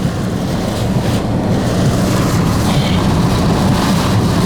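Loud, steady rumbling roar of a tornado's wind close by, growing a little louder in the first second.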